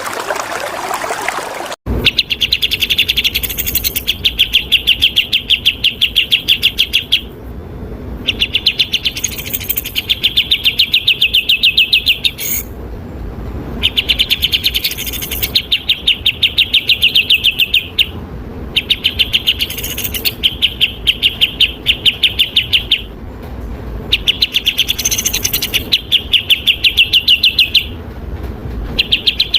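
Flowing water for about the first two seconds, cut off abruptly. Then a songbird in fast runs of sharp repeated chirps, each run lasting several seconds with brief pauses between, as in a masteran recording of a cucak jenggot or kapas tembak.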